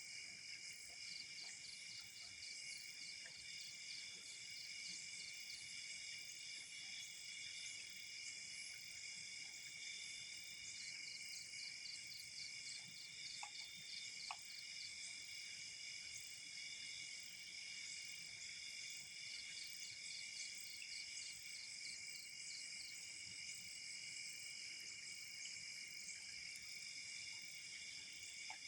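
Night insects such as crickets calling steadily in several high-pitched overlapping tones. A fast pulsing trill joins in bouts of a few seconds, about every eight seconds. A couple of faint ticks sound near the middle.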